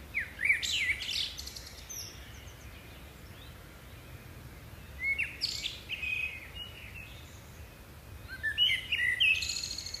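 Songbirds chirping in three bursts of quick notes sweeping up and down: one at the start, one about halfway through and one near the end. A faint steady background noise runs between them.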